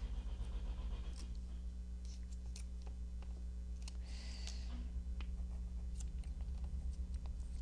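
A machine drones steadily and low in the background, with light clicks and a short rustle of paper and craft pieces being handled close by.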